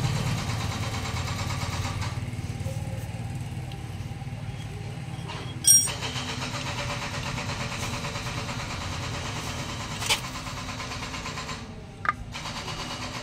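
An engine running steadily at low speed, its low rumble slowly fading. A sharp metallic clank about halfway through and a lighter click later.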